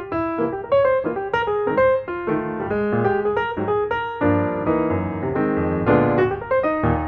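Background music: a piano playing a quick run of notes, with fuller chords from about four seconds in.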